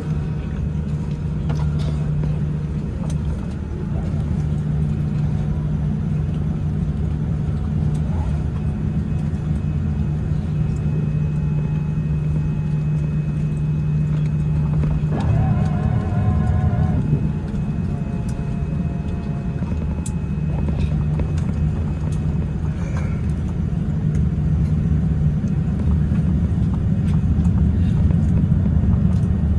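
Cabin noise of a Boeing 787-10 taxiing after landing: a steady low rumble with a constant hum. A brief wavering pitched sound comes about halfway through.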